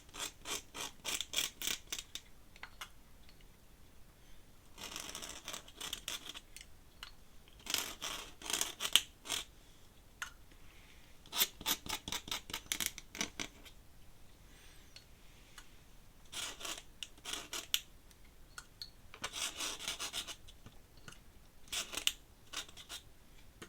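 Ink pen nib scratching across paper in quick drawing strokes. The strokes come in bursts of a second or two, with short pauses between them.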